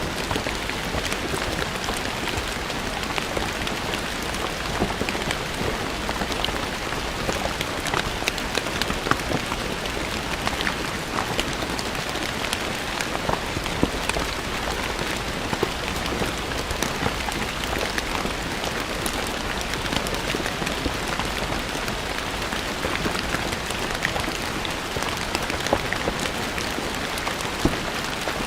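Steady rain falling on stone paving, a constant hiss with many distinct drops pattering and splashing.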